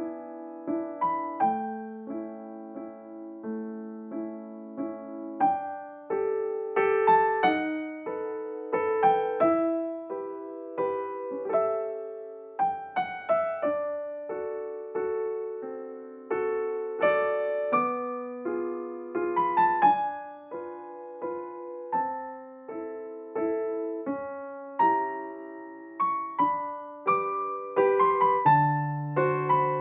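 Background piano music: a gentle melody of struck notes over a chord accompaniment, each note fading after it is played.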